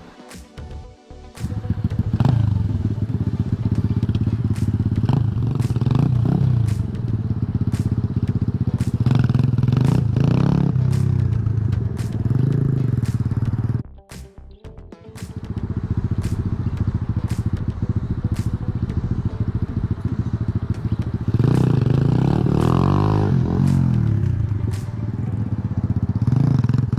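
Tao Tao DB17 125cc pit bike's single-cylinder engine revving up and falling back again and again, dropping out briefly about fourteen seconds in, then running and revving again.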